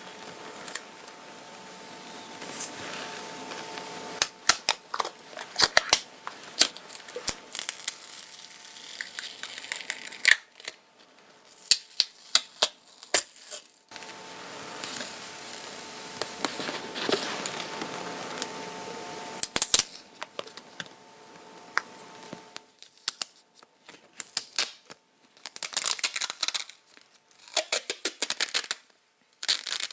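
Sticky lint roller worked over a fabric garment, its adhesive sheet crackling and peeling off the cloth in a run of irregular short strokes, with brief pauses between passes.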